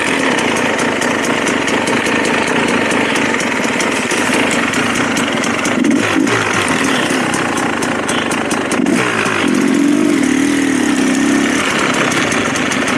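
Dirt bike engine running under way on a trail, its revs climbing about six seconds in and again about nine seconds in, held up for a couple of seconds before easing off.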